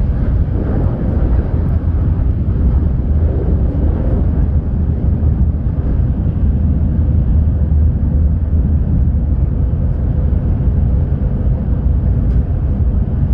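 Shinkansen train running at speed, heard from inside the passenger car: a steady deep rumble with a faint steady hum above it.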